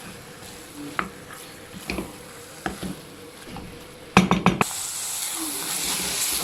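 Minced beef and grated onion frying in a pot while a spoon stirs, with occasional scrape-clicks. About four seconds in comes a quick run of spoon knocks against the pot, followed by a louder, steady sizzle.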